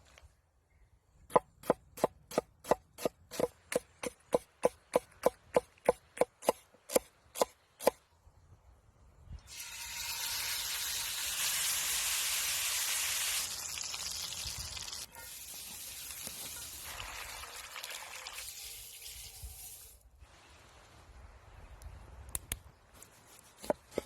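A knife chopping on a cutting board, about three strokes a second, for some six seconds. Then a steady hiss lasts about ten seconds and drops in level partway through.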